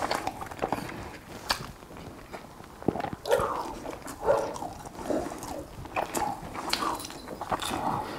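Close-miked eating sounds: wet chewing and lip smacking on fish, with irregular small clicks of fingers and fork on the plate.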